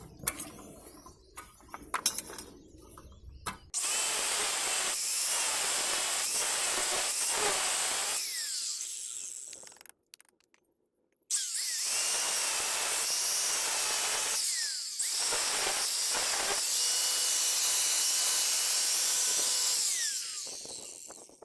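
Small electric cutter with a cut-down abrasive metal-cutting disc cutting a soil-cement brick: it runs steadily for a few seconds, winds down to silence about ten seconds in, then starts again and runs until it winds down near the end.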